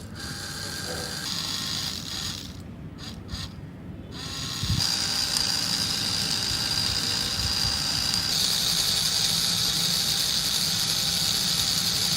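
Small motor and gears of a homemade model chaff cutter running, with a rattling gear sound; a steady high whine comes in louder about five seconds in.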